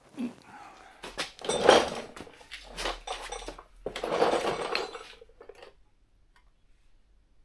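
Workshop handling noise: metal parts and tools clattering and rubbing, with several sharp knocks over the first five or six seconds, the loudest a little under two seconds in, then it stops.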